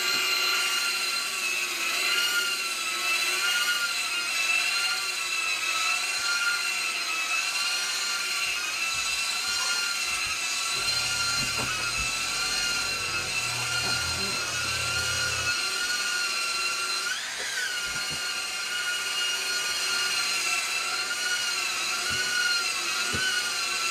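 Vacuum cleaner motor running with a steady high whine that wavers slightly in pitch, with a brief rise and fall in pitch about two-thirds of the way through.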